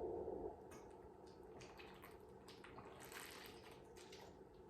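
Faint wet chewing with scattered small mouth clicks and smacks.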